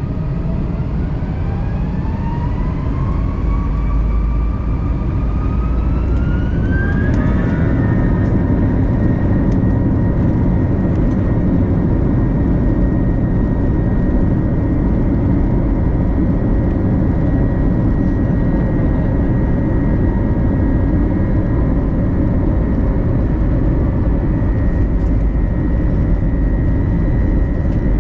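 Airbus A321 jet engines heard from inside the cabin, spooling up to takeoff thrust. The whine rises over the first eight seconds or so, then holds steady over a loud rumble as the airliner rolls down the runway.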